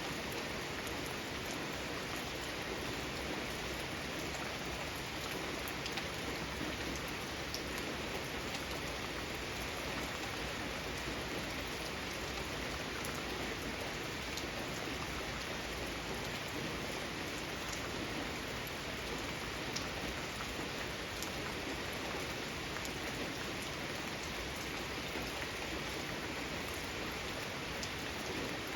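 Steady rain falling on a garden, an even hiss with scattered individual drop ticks.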